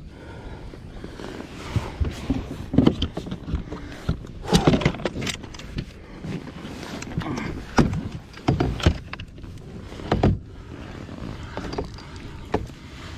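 Irregular thumps, knocks and rattles of gear and a fish being handled in a plastic fishing kayak, some sharp and loud, others soft.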